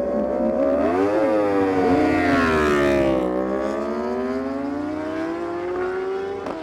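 Superbike engines at full throttle on a drag run. The pitch rises about a second in, falls away until about three seconds in, then climbs steadily again.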